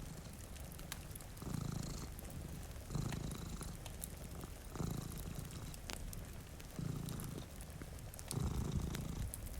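Domestic cat purring close up, the purr swelling and easing with each breath about every second and a half to two seconds. Sparse sharp crackles from a wood fire sound over it.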